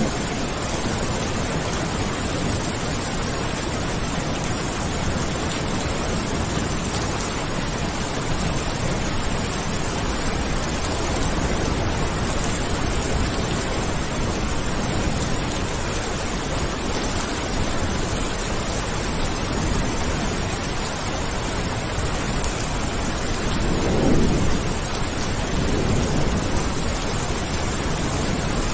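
Steady, dense rain with a low rumble of thunder rolling in about 24 seconds in and fading a couple of seconds later.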